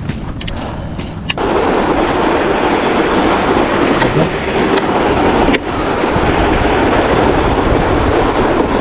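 Electric scooter riding over lake ice: a steady rough rattling rumble of wheels on ice that starts abruptly about a second in, with a brief dip about halfway through.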